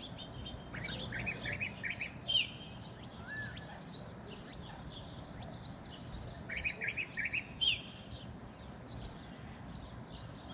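Birds chirping: many short high chirps throughout, with two quick runs of notes about one and seven seconds in, and a lower, slurred call once in between.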